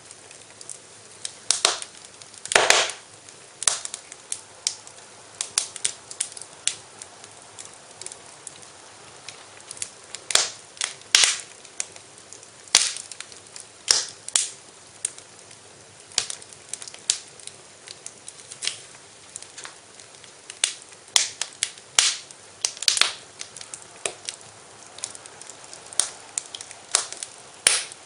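Wood fire crackling in a fireplace: irregular sharp pops and snaps, some much louder than others, over a soft steady hiss.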